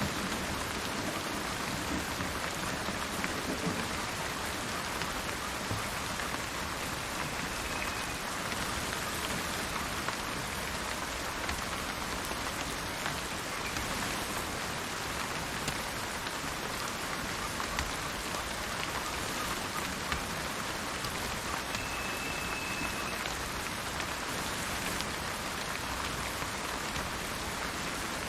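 Steady heavy rain falling, with the low rumble of thunder dying away in the first few seconds. A short, high, steady bird note sounds twice, about 8 seconds in and again near 22 seconds.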